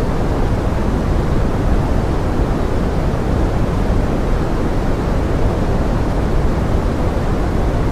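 Steady pink-noise forest rain: a dense, even rushing hiss, heavier in the low end than the highs, with no separate drops or other sounds standing out.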